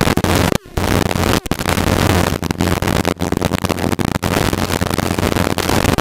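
Helicopter in flight heard from the cabin: rotor and engine running steadily under heavy wind noise on the microphone, with a few sudden, very short drop-outs.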